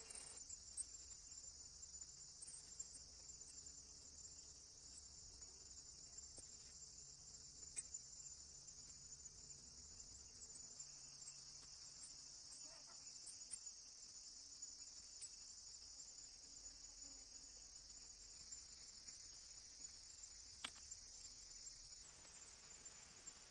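Faint, steady, high-pitched chirring of insects, with a few faint ticks here and there.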